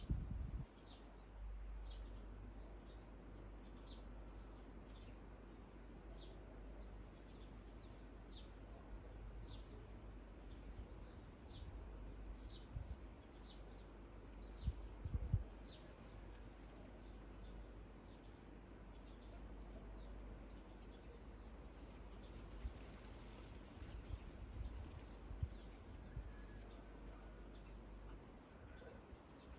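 A faint, steady, high-pitched trill of crickets or other insects, with a bird repeating a short falling call about once a second through the first half. A few low bumps of wind or handling rumble come near the middle and later on.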